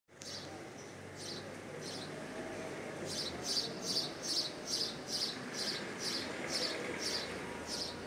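A bird calling a short, high note over and over: a few scattered calls, then a steady run of about two or three a second from about three seconds in. Under it is a steady background hiss of ambient noise.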